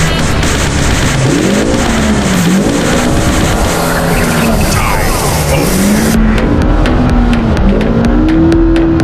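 Side-by-side UTV engine revving up and down repeatedly under a dense rush of wind and driving noise. The high hiss drops off suddenly about six seconds in.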